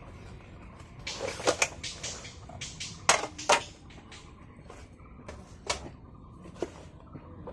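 A series of sharp knocks and clatters from things being handled, the two loudest about three seconds in, half a second apart, then a few softer single clicks.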